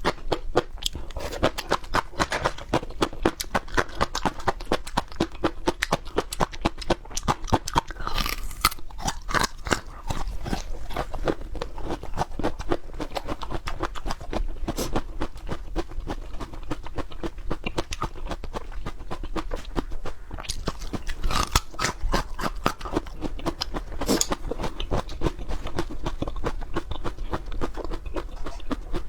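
Close-up chewing and biting of crisp peppers: a steady run of wet crunches.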